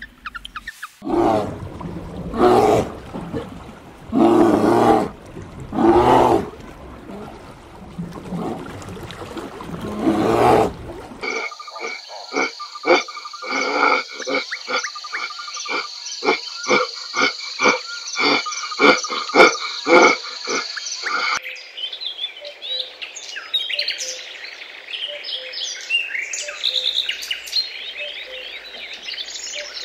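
A run of animal calls in three parts. First about five long, harsh calls of a second or so each. Then about ten seconds of rapid, even croak-like pulsing under a steady high ringing. Then a busy stretch of short high chirps.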